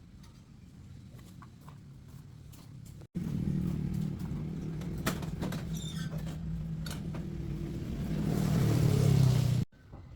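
An engine running steadily, growing louder with added hiss toward the end. It starts and stops abruptly, with quieter light clicking before it.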